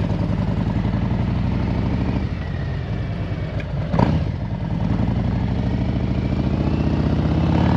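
Harley-Davidson Road Glide's V-twin engine idling steadily just after being started, with one sharp click about four seconds in and a slight rise near the end.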